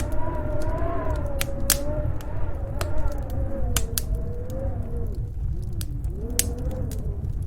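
Wood fire crackling with irregular sharp pops, over a steady low rumble and the howl of snowstorm wind, its pitch slowly wavering up and down.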